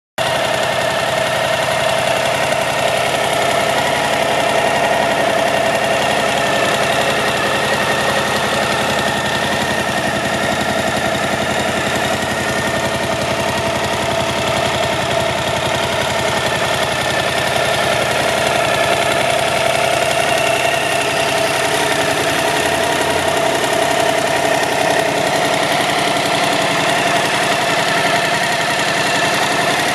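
Suzuki DL1050 V-Strom's V-twin engine idling steadily, holding an even note with no revs.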